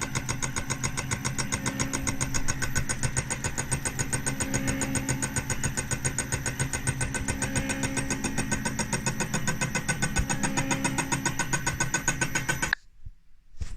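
A motor-driven machine running steadily with a fast, even pulsing, which cuts off abruptly near the end.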